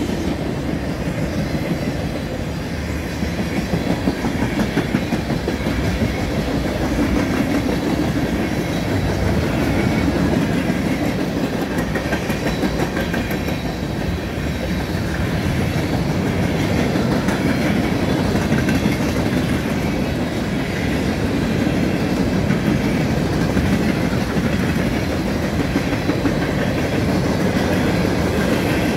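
Freight cars of a CSX mixed freight train rolling past: a steady rumble of steel wheels on rail with a rapid clickety-clack of wheels over rail joints.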